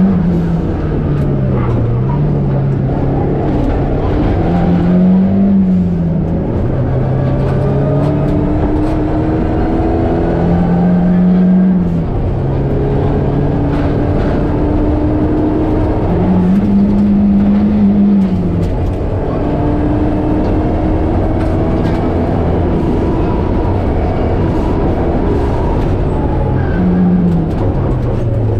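Rally car's engine heard from inside the cabin at speed, revving up and dropping back again and again through gear changes, over a steady rush of road and tyre noise.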